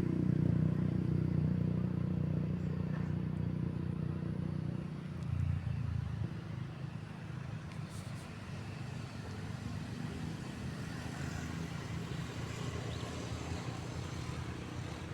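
A low engine drone fades away over the first five seconds, then a quieter steady rumble of engines and traffic carries on.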